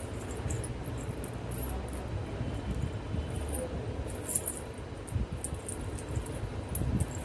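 Four pairs of anklets (payal) worn together jingling with irregular little clashes as the feet move, over a low rumble.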